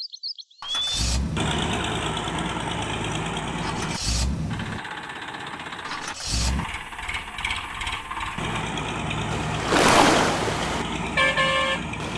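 Heavy vehicle engine running steadily, with a few thumps, two loud rushing swells toward the end and a short horn honk shortly before the end.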